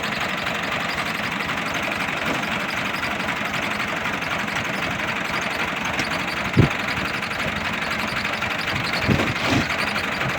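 Fiat 480 tractor's diesel engine running steadily, with a single sharp thump about two-thirds of the way through.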